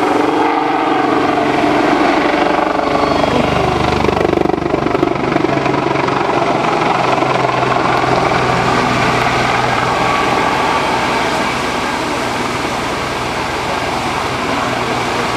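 Display aircraft flying past. Its engine note drops in pitch about three to four seconds in, then settles into a steady drone.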